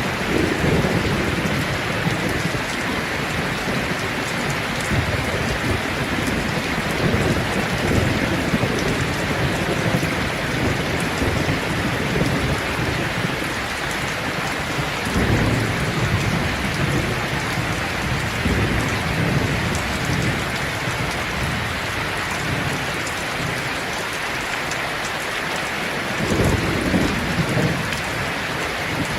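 Steady rain pouring, with low rolling thunder rumbling in the distance three times: at the start, midway through and again near the end.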